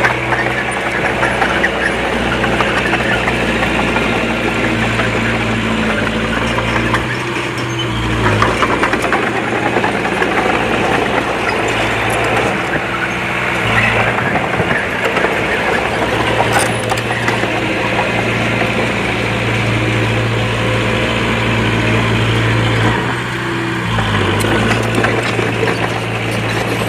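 Diesel engine of a Komatsu D20P bulldozer running steadily under load, with a dense metallic rattle over it. The engine note dips briefly twice, about a quarter of the way in and again near the end.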